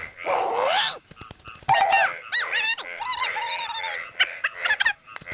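A quick run of varied animal-like calls and squeaks, many gliding up and down in pitch, mixed with sharp clicks.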